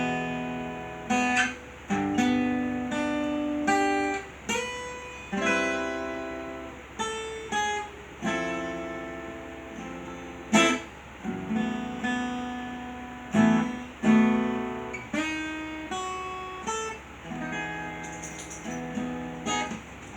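Solo acoustic guitar playing a chord-melody arrangement, starting on an E chord: plucked and strummed chords with single melody notes picked over them, each ringing out and fading before the next.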